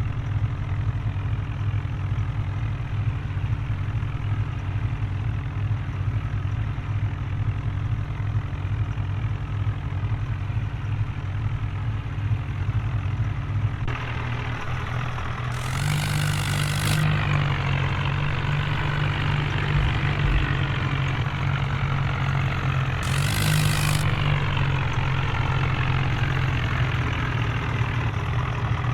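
A heavy vehicle engine running steadily with a low hum. About halfway through the engine note changes and gets a little louder. Two short, loud hissing bursts follow, several seconds apart.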